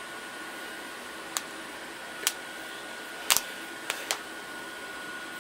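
Steady fan hiss with a faint high whine, broken by five sharp clicks or taps, the loudest about three seconds in.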